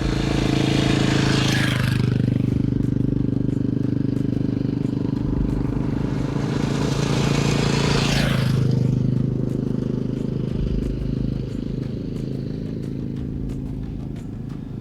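Motorcycle engine running steadily while two vehicles rush past, each pass falling in pitch, about two seconds in and again about eight seconds in.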